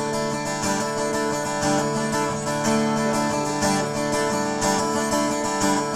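Acoustic guitar playing an instrumental passage, chords strummed about once a second and left to ring, with no singing.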